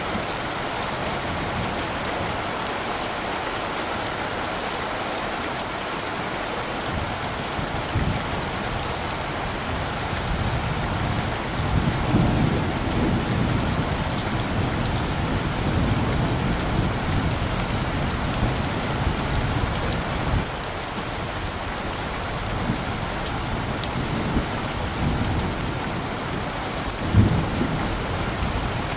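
Steady rain falling, with a low rumble of light thunder swelling about twelve seconds in and a short low thump near the end.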